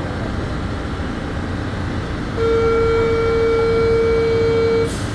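MetrôBH Série 900 electric train running with a steady rumble. About halfway through, a loud steady electronic beep sounds for about two and a half seconds, then cuts off suddenly with a click.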